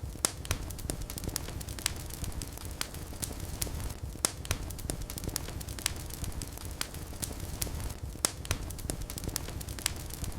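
Wood fire in a fireplace burning with a low rumble of flames and irregular sharp crackles and pops, a few of them louder snaps.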